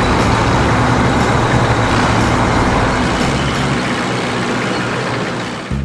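Heavy vehicle engine running with a dense rumble of road noise, a cartoon vehicle sound effect; it drops away abruptly at the very end.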